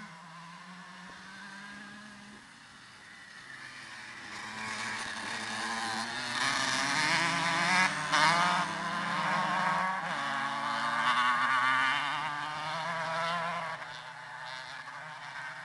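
125 cc two-stroke dirt bike engines revving up and down while riding. They get louder from about four seconds in, are loudest through the middle, then fade toward the end.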